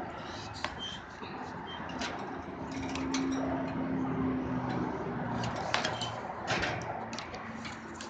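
Handling noise from a phone camera being pushed in through a wire bird-cage door: scattered knocks and clicks against the cage, with a faint low hum for a couple of seconds in the middle.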